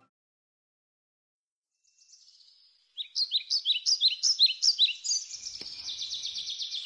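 After about two seconds of silence, a songbird sings: a run of quick down-slurred chirps, about four a second, running into a fast trill.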